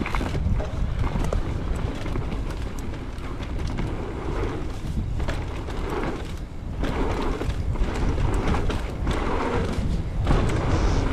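Wind rumbling on the camera microphone while a mountain bike rolls fast along a dirt trail, with tyre hiss that swells and fades and sharp rattles and knocks from the bike over bumps.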